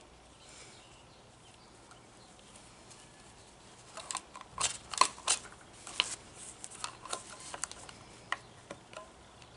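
Irregular sharp clicks and light taps of small hard parts being handled, starting about four seconds in and loudest around five seconds, then thinning out.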